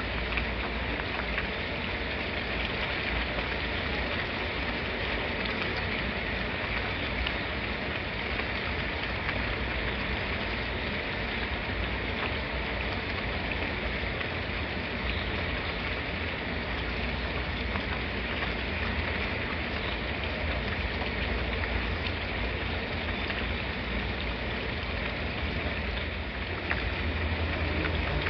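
Steady rain falling, an even continuous patter.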